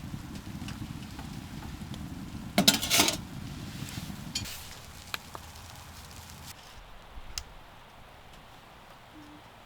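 Metal cookware and utensils being handled and clinking, with a loud clatter about two and a half seconds in and a few light clicks afterwards.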